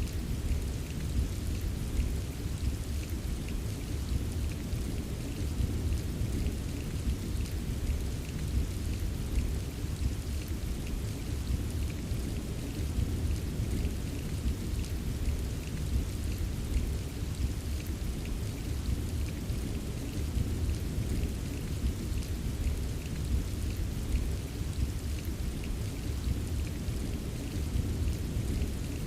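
Steady rain with a continuous low rumble of distant thunder underneath and fine drops ticking throughout. The level stays even, with no single loud clap.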